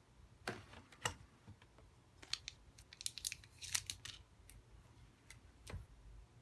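Faint, irregular light clicks and snaps of a Samsung Galaxy S3 smartphone's plastic body being handled, about a dozen small ticks spread over several seconds.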